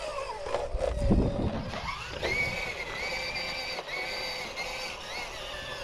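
RC rock crawler's electric motor and gears whining, the pitch rising and stepping with the throttle as it climbs, with a low thump about a second in.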